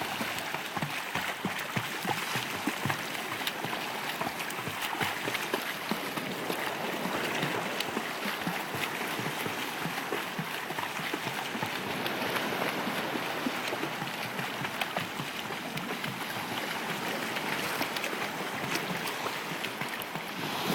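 Sea water sloshing and splashing close by, an even wash of water noise full of small splashes.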